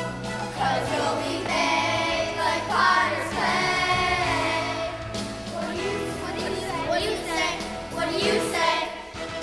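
A choir of voices, children's among them, singing a song with musical accompaniment.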